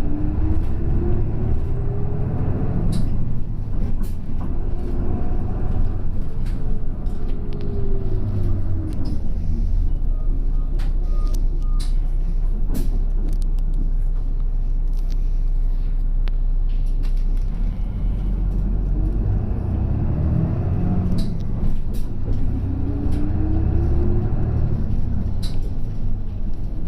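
Route bus heard from inside the cabin: the engine and drivetrain whine rises as the bus pulls away and falls as it slows. It settles into a steady low hum for several seconds about midway, then rises and falls again near the end. Short clicks and rattles come through now and then.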